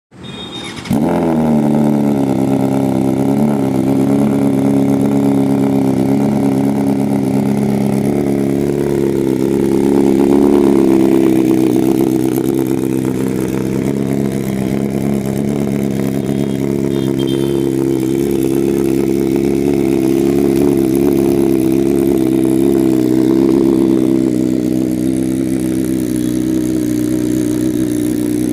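BMW S1000RR's inline-four engine starting up within the first second on a cold start, then idling steadily with a couple of slight swells in level.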